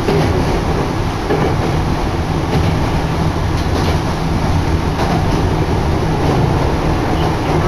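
A Chichibu Railway train running at speed, heard from inside the carriage: a steady loud rumble of wheels and running gear on the track, with wind blowing in through an open window.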